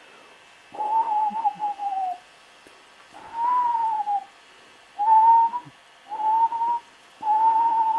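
A steam locomotive whistle blown in five eerie hoots over a hiss of steam. The first two are long and sag in pitch at the end; the last three are shorter and steadier.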